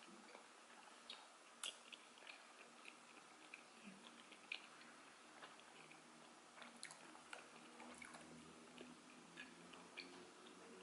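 Faint close-up chewing of soft, elastic kiri mochi rice cakes, with small wet mouth smacks and clicks coming at irregular intervals.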